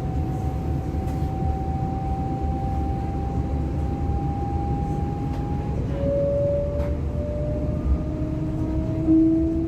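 Class 425 electric multiple unit heard from inside while under way: a steady rolling rumble, with the electric traction drive's whine slowly rising in pitch. About six seconds in, the whine steps down to a lower tone and climbs again, as the train gathers speed.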